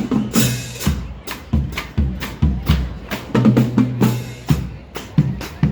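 Marching band percussion section playing a drum cadence: bass drums booming and snare drums cracking in a steady rhythm, with cymbal crashes about half a second in and again about four seconds in.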